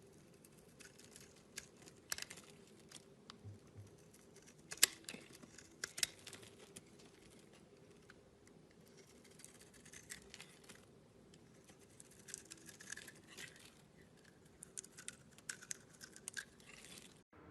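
Slime being handled: scattered small clicks and crackles in uneven clusters, with one sharper pop about five seconds in. The sound stops abruptly near the end.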